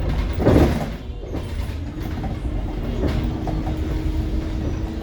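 On-board running noise of a Scania K360IB bus: a steady low rumble, with a short loud burst of noise about half a second in. A steady hum comes in about three seconds in.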